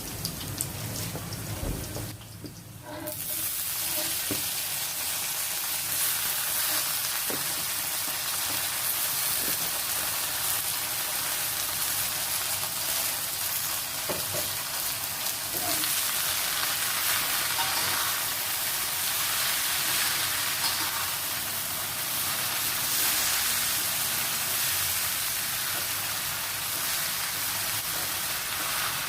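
Water spinach (kangkung) sizzling in hot oil in a frying pan as it is stir-fried, with a few light taps. The sizzle jumps up sharply about three seconds in and then stays loud and even.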